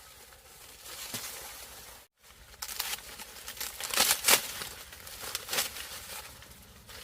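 Rustling and crackling in irregular bursts, loudest about four seconds in, with a brief gap near two seconds.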